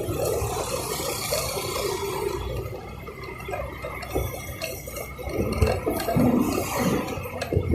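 Wind rushing and buffeting over the microphone of a moving motorbike, with road and traffic rumble underneath.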